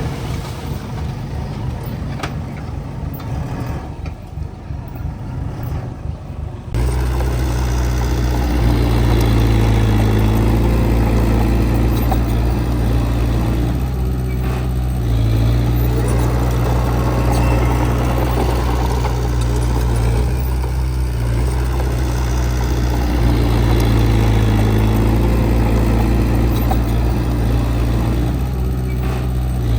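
Diesel engine of heavy earthmoving machinery running steadily with a low, even drone. About a quarter of the way in it abruptly becomes much louder and stays that way.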